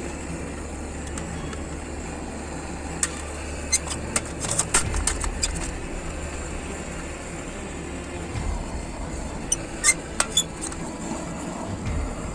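Hammer strikes on a warped metal fire-pit grate being beaten flat: scattered sharp metallic taps in two groups, a few seconds apart, over a steady low rumble.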